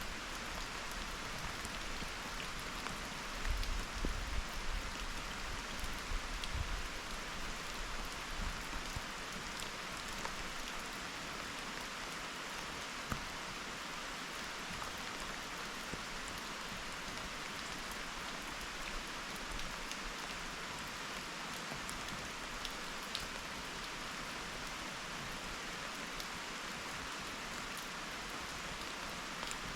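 Steady rain falling, a continuous even hiss with scattered drop ticks, with a few low rumbles in the first several seconds.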